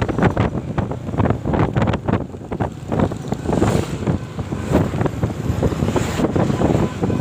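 Wind buffeting the microphone on a moving motorcycle, in rough, uneven gusts with vehicle noise underneath.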